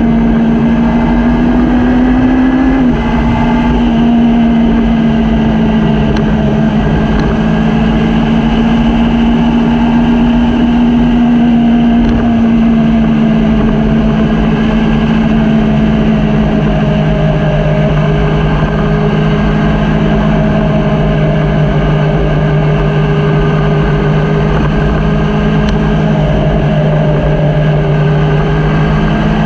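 Motorcycle engine running at a steady cruise over a low rush of wind and road noise; its pitch sinks gradually from about twelve seconds in and rises again near the end.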